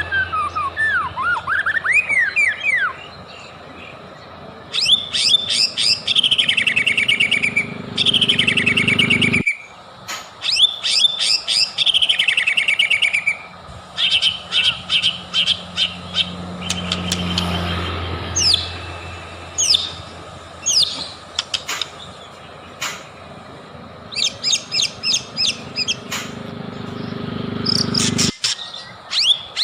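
White-rumped shama (murai batu) singing: phrases of rapid chattering trills and quick swooping whistles, repeated again and again with short gaps. The recording cuts off abruptly twice, and a low hum runs under parts of it.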